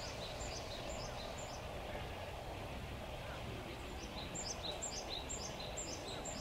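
A small bird's quick series of short, high, downward-sliding chirps, about three a second, heard during the first second and again from about four seconds in, over a steady outdoor background hum.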